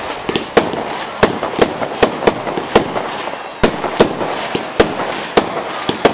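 Fireworks going off in a rapid, irregular string of sharp bangs, about two or three a second.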